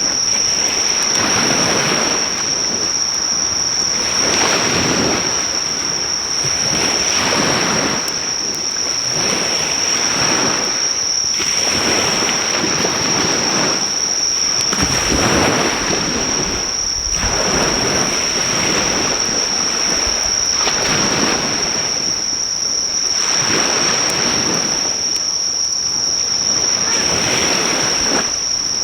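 Waves breaking on the shore, swelling and falling back every couple of seconds, under a loud, steady, high-pitched insect song that holds one pitch throughout.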